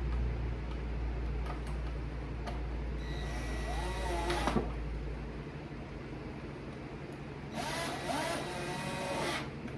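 Cordless drill/driver running screws into a drawer handle in two bursts, about three seconds in and again near the end. Each burst is a motor whine that rises as it spins up, then holds.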